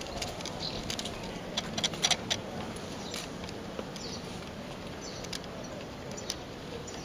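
Small birds chirping now and then over a steady background hiss, with a cluster of sharp clicks about two seconds in.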